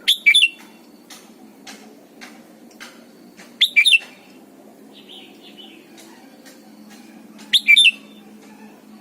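Red-whiskered bulbul singing three short, loud whistled phrases about four seconds apart.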